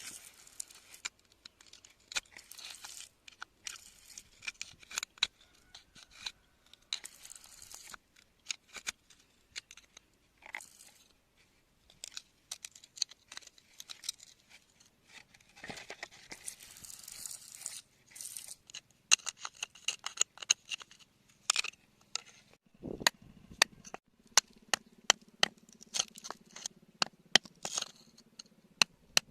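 Crunching and scraping with many sharp clicks and taps, like hand tools working at rock and gravel. About two-thirds of the way through, a low steady hum joins in underneath.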